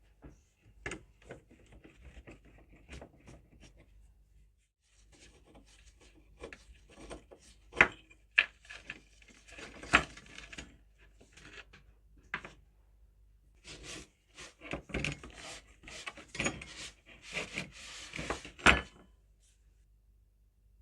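Hand-worked rusty metal scissors being scraped and handled: irregular scraping and rubbing broken by sharp knocks and clicks, with a short pause after a few seconds and the loudest knocks near the middle and near the end.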